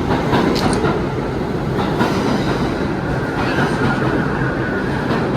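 New York City subway train running through the station, a loud steady rumble with irregular clacks of wheels over rail joints. A thin, steady squeal rises out of it about three seconds in and lasts over a second.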